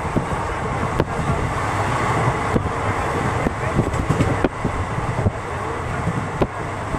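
Passenger train running, a steady rumble with wind noise on the microphone and sharp clacks about once a second or two, typical of wheels passing over rail joints.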